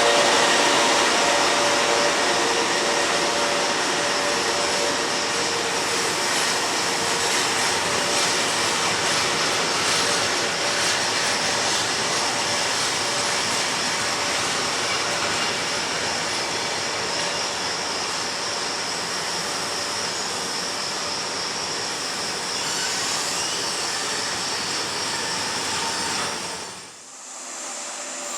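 Train running through a station, a steady rush of wheel and running noise with faint humming tones, slowly fading. It breaks off about 27 seconds in and a quieter rush follows.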